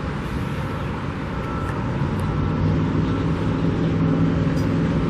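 Road traffic with a motor vehicle's engine running, its low hum growing louder from about halfway in.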